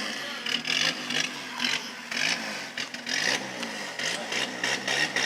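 Vehicle engine running at low speed, its pitch wavering up and down as it is eased forward, with short scraping or hissing noises on top.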